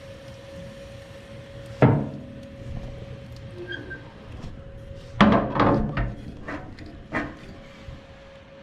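A few sharp knocks and clatters: one about two seconds in, a quick cluster a little past halfway, and one more near the end, over a steady faint hum.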